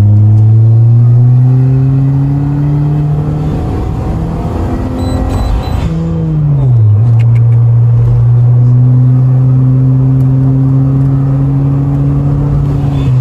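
Turbocharged Perodua Myvi engine heard from inside the cabin while accelerating: the engine note climbs for a few seconds, turns rougher and noisier in the middle, dips as the revs drop about six seconds in, then settles into a steady drone that slowly rises again.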